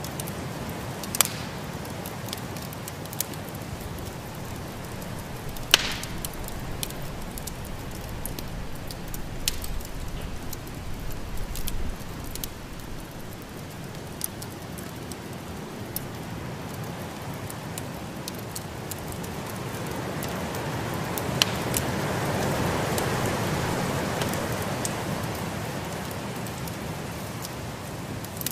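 Wood fire crackling with a few sharp pops, over the steady rush of a snowstorm wind that swells into a louder gust about three-quarters of the way through.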